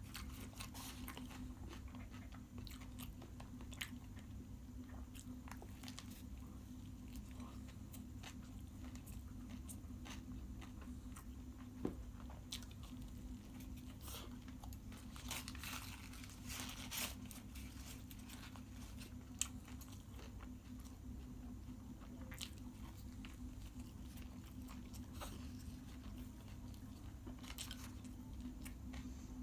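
Close-up biting and chewing of an egg roll: scattered wet mouth clicks and soft crunches, a few louder ones around the middle, over a steady low hum.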